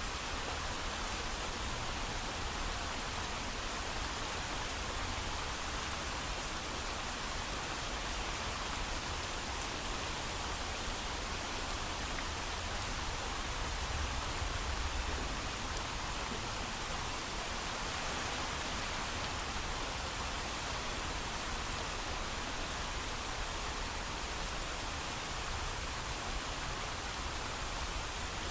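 Steady heavy rain, an even hiss with a low rumble underneath and no thunder.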